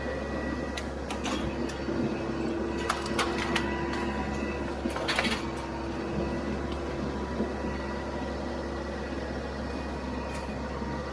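TYM compact diesel tractor engine running steadily, with several sharp clanks and knocks over it: a cluster about three seconds in and the loudest about five seconds in.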